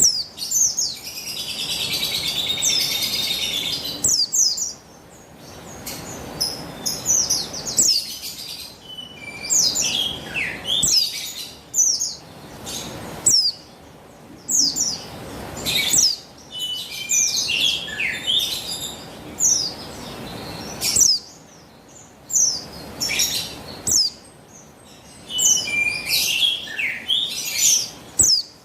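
Female buxtoni white-eyes (pleci) calling: a rapid run of high, thin chirps and short sweeping notes, with a sustained warbling trill in the first few seconds. This is the call a female gives to stir males into song.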